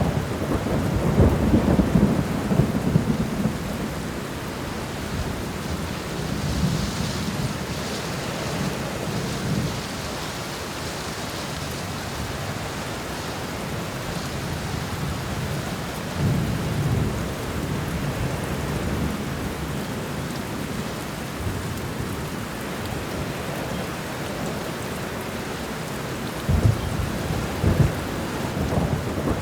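Steady rain with thunder rumbling low several times: near the start, about a quarter of the way in, a little past the middle and again near the end.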